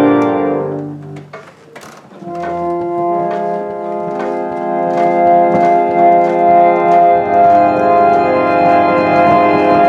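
Restored pump reed organ playing held chords. The first chord dies away about a second in and a few clacks sound in the gap. A new chord comes in about two seconds in and changes about seven seconds in.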